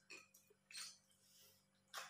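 Near silence broken by a few faint, short eating noises: chewing and mouth sounds of a man eating with his hand.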